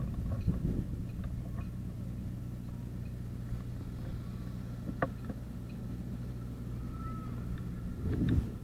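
Harley-Davidson V-twin motorcycle engine running at a steady, unchanging speed, with a sharp click about five seconds in.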